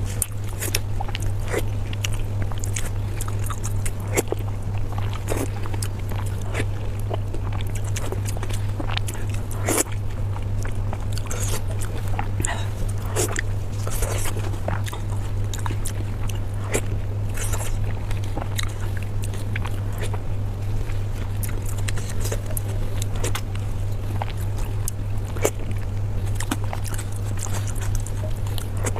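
Close-miked eating sounds: irregular wet clicks, smacks and crunches of a person chewing and biting food. A steady low hum runs underneath.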